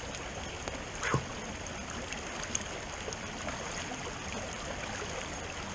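Creek running high after heavy rain: a steady rush of flowing water, with one brief louder sound about a second in.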